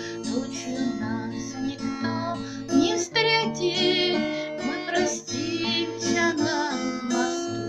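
Music: acoustic guitar accompaniment of a Russian romance, with sustained notes under a wavering melody line.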